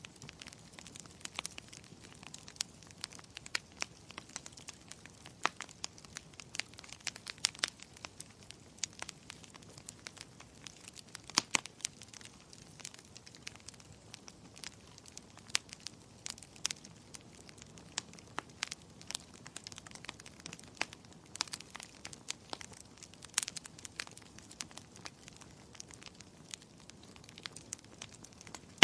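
Wood fire in a fireplace crackling, with frequent irregular sharp pops over a soft low hiss.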